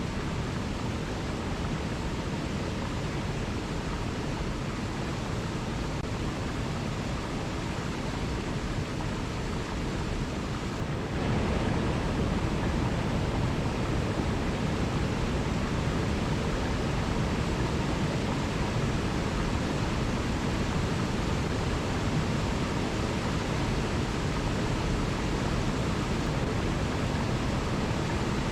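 Waterfall pouring: a steady, even rush of falling water, which gets a little louder and deeper about eleven seconds in.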